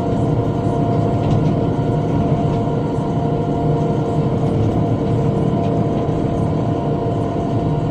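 Tractor engine running steadily under load while cutting with a rotary cutter (bush hog), with several steady tones over a dense low rumble.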